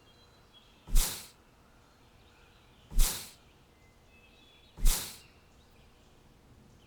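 Three sudden noisy bursts about two seconds apart, each fading away within half a second, with faint short high bird chirps between them.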